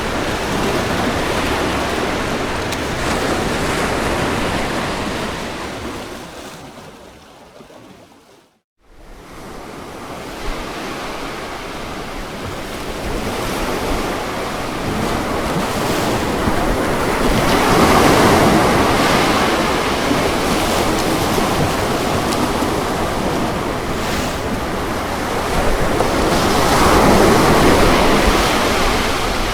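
Ocean surf washing and breaking on a beach, a steady rushing noise with waves swelling louder about 18 and 27 seconds in. About eight seconds in, the surf fades out to a moment of silence and fades back in, an edit or loop point in the recording.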